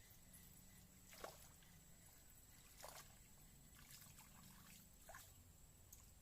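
Near silence: faint outdoor ambience with a low steady hum and three faint, brief plops or ticks spaced a second or two apart.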